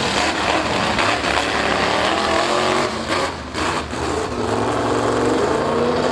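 Drag-racing car engine running loudly, its pitch wavering up and down.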